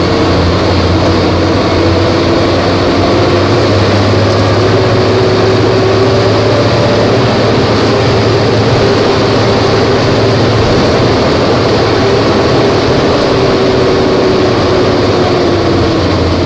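Volvo B270F bus engine running steadily, a loud continuous low drone with a faint tone above it that drifts a little in pitch.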